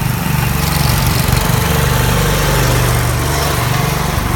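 Engines of two small garden tractors, a 1972 John Deere 110 and a Ford, running loud and steady as the tractors drive off together.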